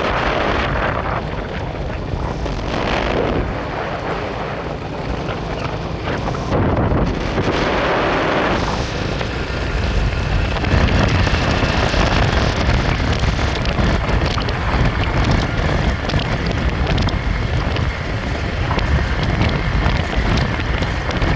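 Wind buffeting the microphone on a moving vehicle, with a steady rumble of road and engine noise beneath it. The noise swells in gusts in the first few seconds.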